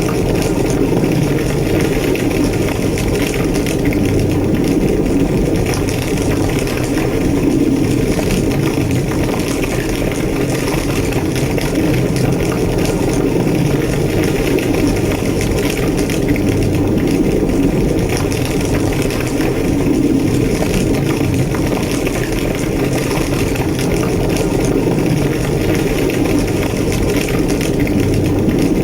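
A large burning building: flames give a steady, low roar, with crackling throughout.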